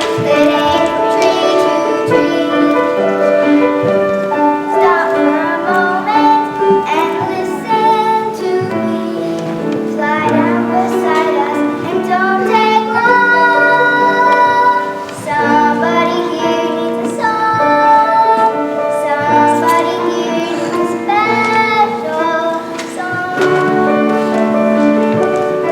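Children's voices singing a musical-theatre song with instrumental accompaniment, in long held notes that move from pitch to pitch.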